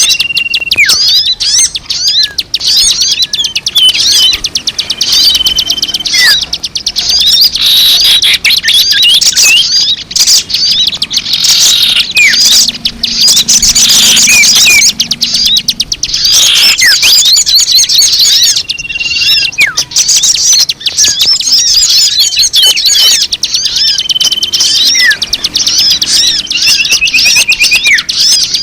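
A dense chorus of many small songbirds twittering and chirping without pause, rapid high chirps with now and then a short held whistle note or a falling note: a bird-lure (pemikat) recording.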